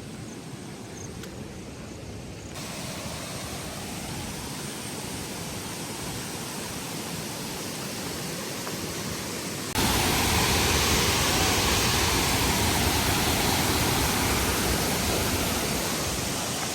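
Steady rush of falling water from a waterfall, a dense even hiss. It jumps louder abruptly twice, about two and a half seconds in and again near ten seconds.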